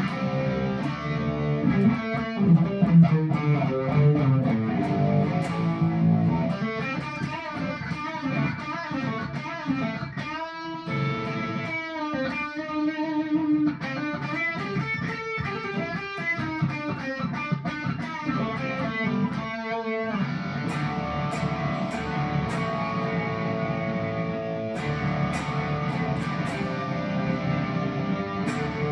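Electric guitar, a Firefly LP-style fitted with a Seymour Duncan '59 bridge pickup, played through a Marshall Origin 20 amp with a Joyo British overdrive pedal: riffs and chords, with bent notes about a third of the way in and ringing chords toward the end.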